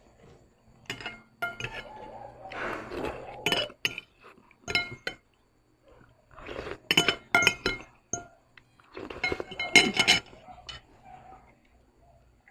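Tableware clinking: several clusters of sharp clinks, each with a short ringing tone after it.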